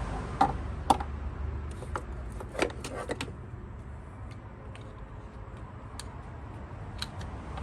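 Scattered sharp metallic clicks and knocks from tools and parts being handled in a car's engine bay, loudest about half a second and a second in, with a cluster near the middle and one more near the end.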